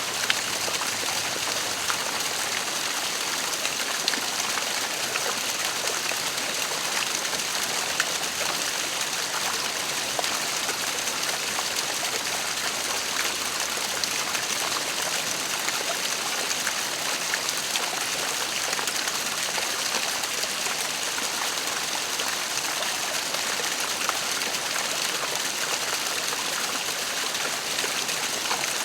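Waterfall: water falling and splashing in a steady rushing hiss, with small drips and splashes ticking through it.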